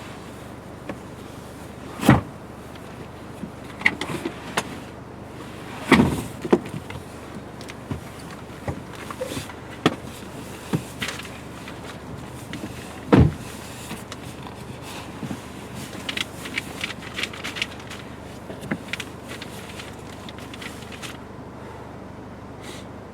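Irregular knocks and clicks, with three louder thumps about two, six and thirteen seconds in and a run of small clicks later on, over a steady low background.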